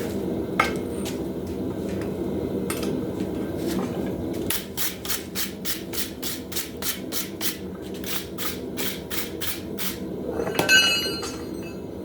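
Hand hammer blows on metal at the anvil while forging a hammer head: a few single strikes, then a quick run of about three blows a second with a brief pause. A ringing metallic clang near the end, over a steady low rumble.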